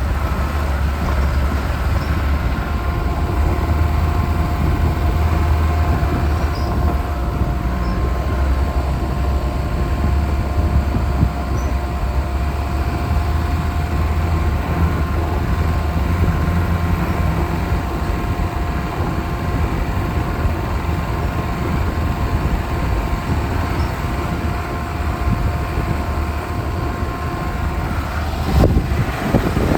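Lada Niva driving on a rough off-road track: a steady low engine and road rumble with a faint steady whine over it, and a brief louder jolt near the end.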